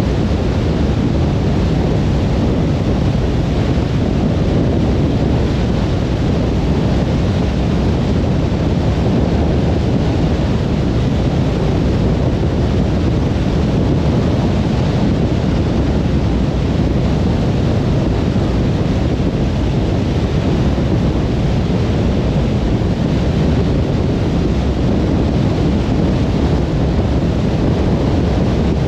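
Steady road noise of a car cruising on a motorway: an even, unbroken low rumble of tyres and wind with no changes.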